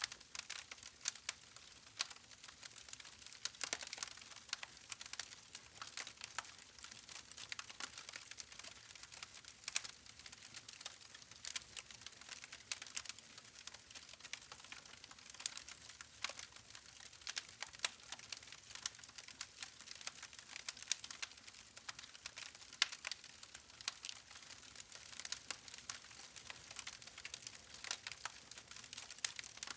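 Wood campfire crackling: irregular sharp snaps and pops of burning logs, several a second, over a soft hiss of flame.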